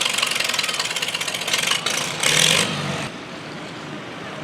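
Farmall tractor engine running hard under full load, pulling a weight sled, with fast, even exhaust pulses. The sound drops sharply about three seconds in.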